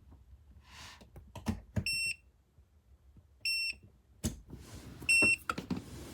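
Electric space heater's control panel beeping three times, short high beeps about a second and a half apart, with clicks and knocks of handling between them.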